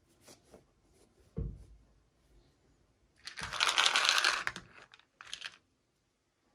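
Doll packaging being handled during an unboxing: a few light clicks, a soft thump about a second and a half in, then a loud rustle lasting about a second, followed by a shorter one.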